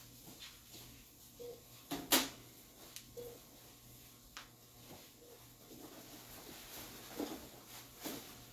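Scattered clicks, clacks and rustles of sterile packs and surgical instruments being opened and handled, with one sharp clack about two seconds in. A faint short beep repeats about every two seconds.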